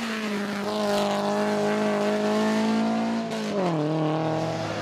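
Rally-prepared VAZ-2107's four-cylinder engine running hard at high revs, its note held steady, then falling in pitch about three seconds in and settling lower.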